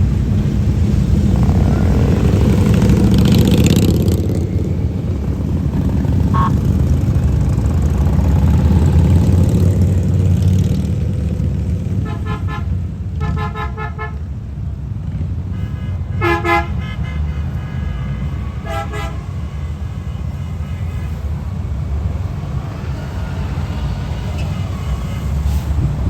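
Motorcycle escort procession rumbling past, with a louder pass in the first few seconds. Several short horn toots sound in the second half, twice in quick pairs.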